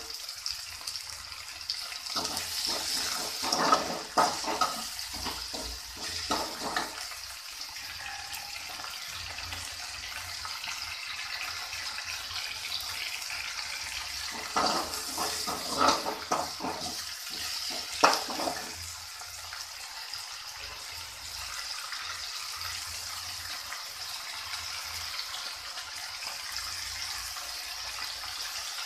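Onions and tomatoes sizzling in oil in a stainless steel kadai. A few seconds in, and again about halfway through, a perforated steel spatula scrapes and clatters against the pan as the mixture is stirred, with one sharp knock near the end of the second spell.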